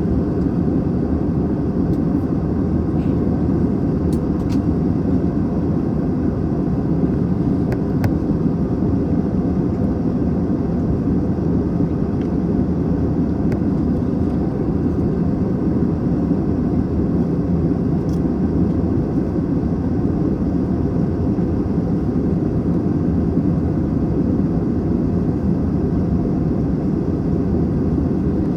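Steady cabin roar inside an Airbus A321 in flight: engine and airflow noise, even and unbroken, with a few faint clicks.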